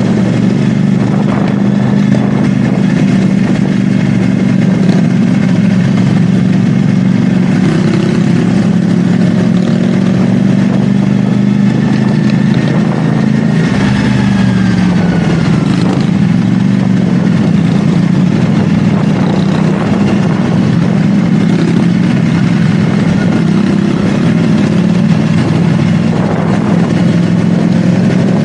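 CFMoto 450SR S parallel-twin motorcycle engine running steadily while riding. The engine note dips in pitch about halfway through, then settles back to a steady note.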